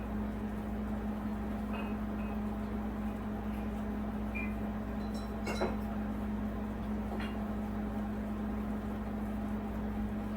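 Steady low electrical hum with a few faint clinks and taps, the sharpest about five and a half seconds in.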